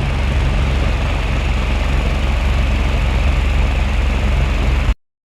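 Steady, loud motor hum with a rushing, airy noise over it, cut off suddenly near the end.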